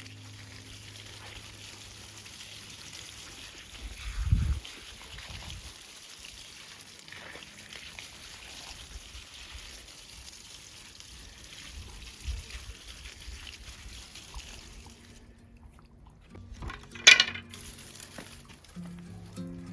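Water pouring steadily, stopping abruptly about fifteen seconds in, with a dull thump about four seconds in and a sharp knock a couple of seconds after the water stops.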